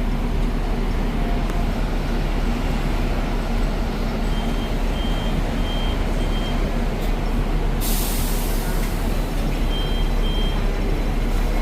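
Hong Kong double-decker tram running with a steady rumble. About eight seconds in comes a burst of hissing air, and short high beeps sound a few times.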